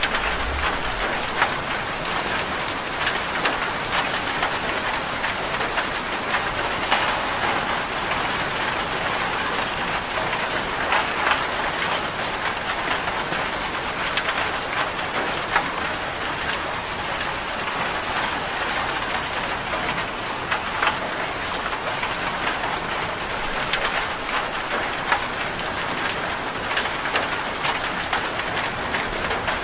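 Steady rain falling, with many small sharp drop hits scattered through it.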